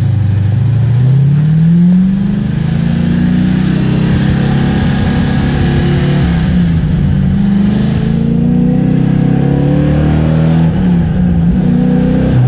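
The V8 engine of a V8-swapped Mazda RX-7, revving up and down while the car is driven on track, heard from inside the cabin. Its pitch climbs over the first two seconds, then rises and falls again and again.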